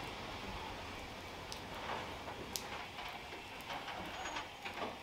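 Railway passenger coaches rolling slowly away along the track: a low rumble that fades, with scattered sharp wheel-on-rail clicks and a brief light squeak.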